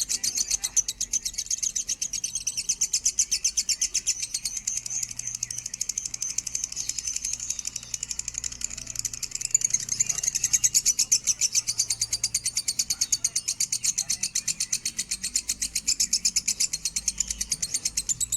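Lovebird chattering in a long, unbroken trill of rapid, evenly repeated high notes.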